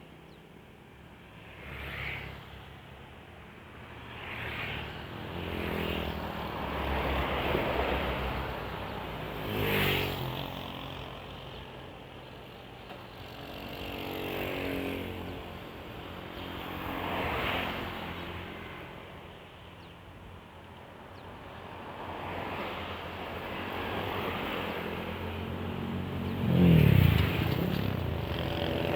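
Road traffic: vehicles passing one after another, each swelling and fading away. The loudest passes near the end with a falling engine pitch.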